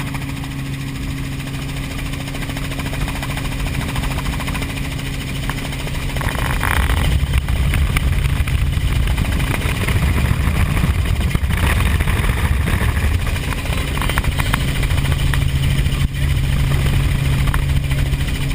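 Helicopter running in flight, a steady hum with a low rumble that grows louder a few seconds in and eases near the end.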